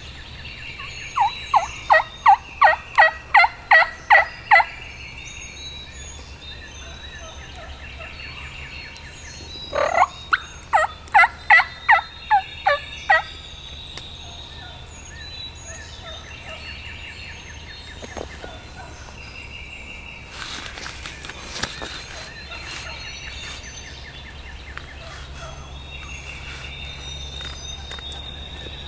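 Wild turkey calling in two loud series of evenly spaced notes, about three a second: one runs from about a second in for some three seconds, the other starts about ten seconds in.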